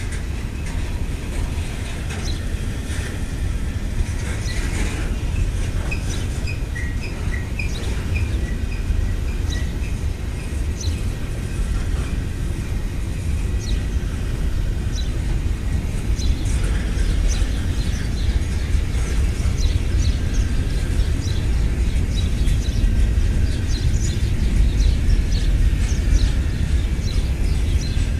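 Double-stack intermodal freight train rolling past at street level: a steady low rumble of the railcars on the track, with scattered clicks and squeaks from the wheels on the rails.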